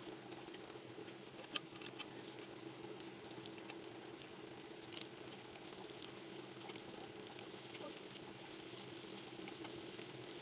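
Tikoy (glutinous rice cake) slices frying in a pan of bubbling oil: a steady sizzle with scattered crackles and two sharper pops about a second and a half in, over a steady low hum.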